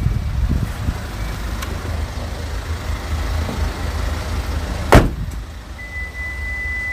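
Steady low rumble with one sharp thump about five seconds in, a vehicle door shutting; about a second later a steady high electronic tone starts and holds, from an EV fast charger.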